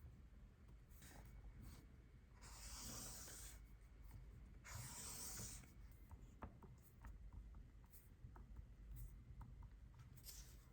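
Faint scratching and rubbing, with two longer strokes about two and a half and four and a half seconds in and small ticks scattered between.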